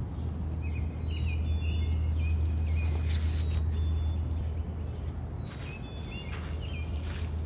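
Small birds chirping, short high notes and a quick trill in scattered bursts, over a steady low rumble. There are a couple of brief rustles about three seconds in and near the end.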